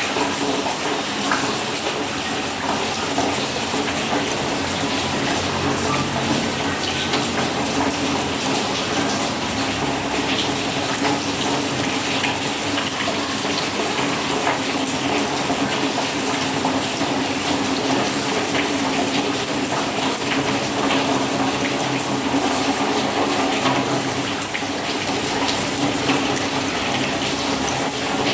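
Steady heavy rain falling, an even wash of noise scattered with countless small drop ticks.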